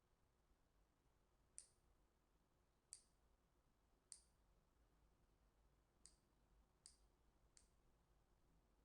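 Six faint, short, high-pitched chips from a bird, irregularly spaced about a second apart, over a very quiet background.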